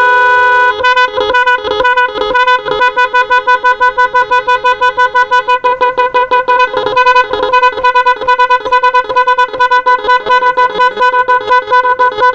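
Musical electronic motorcycle horn with built-in blinking lights, sounding as it is tested. It opens with one steady tone of under a second, then plays a loud, rapid train of short beeping notes as a tune.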